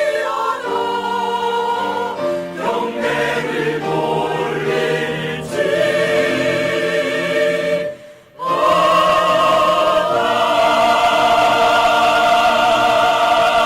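Church choir singing a hymn in parts. After a short break about eight seconds in, the choir holds one long closing chord.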